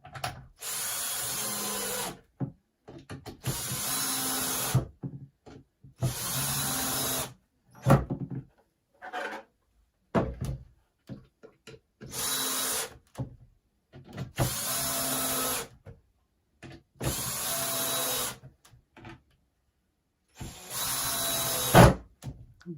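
Power drill driving wood screws into a wooden beehive super, in about seven runs of a second or so each with short clicks and knocks between as screws are set. The last run ends in a sharp knock near the end.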